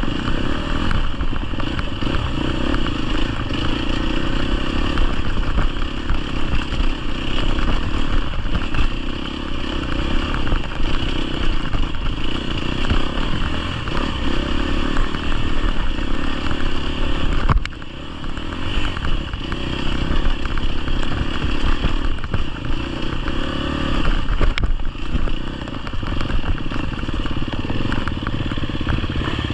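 Dirt bike engine running while being ridden on a trail, the throttle opening and closing so the level rises and falls. There is a brief sharp dip a little past the middle.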